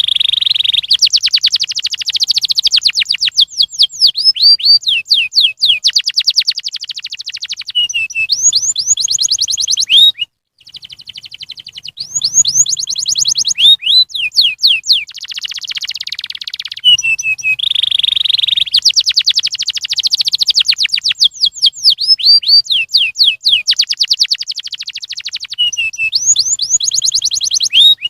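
Domestic canary singing a loud, high-pitched song of rapid trills and quick slurred notes, phrase after phrase, with a brief break about ten seconds in. The same run of phrases comes round again later, as in a looped training recording for prompting other canaries to sing.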